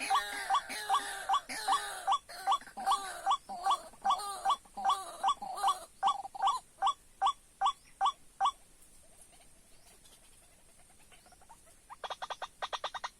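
White-breasted waterhen calling, a loud harsh note repeated steadily about two to three times a second, stopping about two-thirds of the way through. After a short lull, a fast run of softer rattling notes starts near the end.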